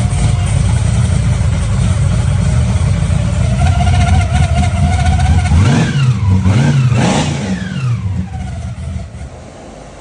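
Car engine running loud, revved up and down twice about six and seven seconds in, then fading away.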